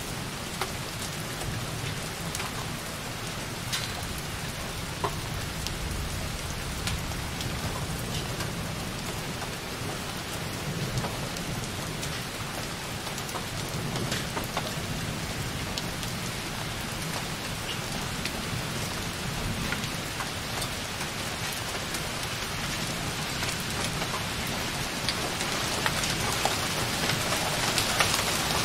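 Light rain hitting a window, with scattered single drop ticks over a low rumble of distant thunder; the rain gets louder near the end.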